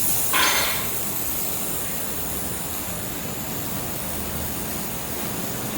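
Handheld air-cooled laser welder welding at high power with a thick filler rod: a steady hiss, with a brief louder burst about half a second in.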